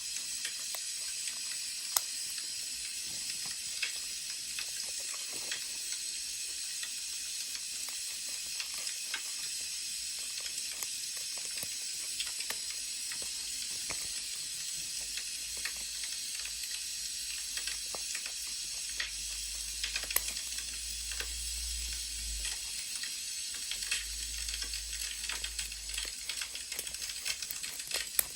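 Wood fire crackling: a steady hiss with scattered sharp pops and snaps.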